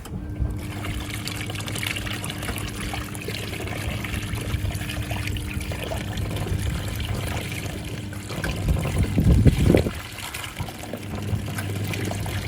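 National NA9450PN pulsator washing machine washing, with water churning and pouring in the tub over the steady hum of the motor; the lint filter is off, so water runs freely through the recirculation outlet. About eight seconds in the hum stops, a louder low surge of water follows, and the hum starts again.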